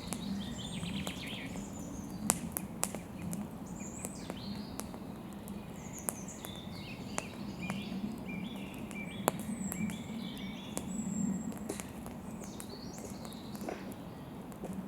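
Wood campfire crackling, with scattered sharp pops and snaps, while small birds chirp and sing.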